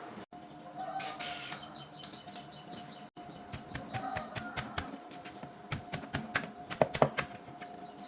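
Irregular light clicks and taps, quick and uneven, growing denser and louder through the middle of the stretch, a few with a short metallic ring, over a faint steady hum.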